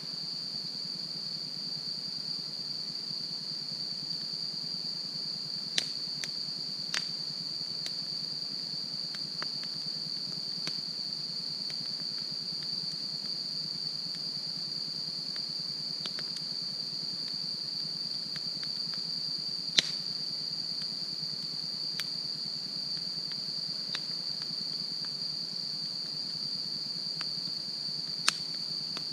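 Wood campfire burning, with occasional sharp crackles and pops, the loudest about 20 s in and near the end, over a steady high-pitched drone.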